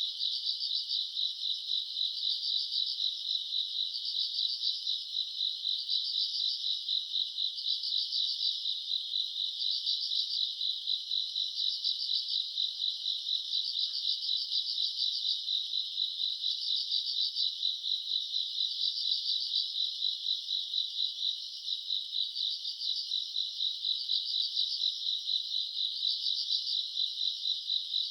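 Summer-night chorus of crickets and other grass insects, a dense, steady high-pitched trilling with a louder chirp pulsing a little more than once a second.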